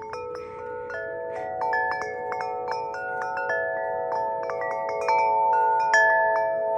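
Tubular wind chime ringing: the striker hits the tubes again and again, and several tuned notes sound at once and hang on, overlapping.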